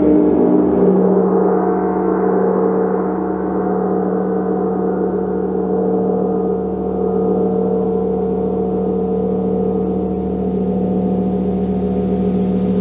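A gong ringing in a sustained wash of overtones. Its bright upper shimmer fades over the first couple of seconds, leaving a steady low hum that wavers with a fine pulsing.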